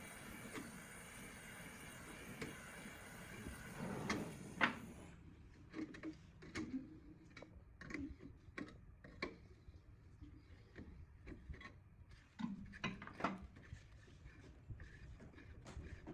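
A steady noise for about five seconds, then a scatter of sharp, irregular clicks and knocks of parts being handled in a workshop.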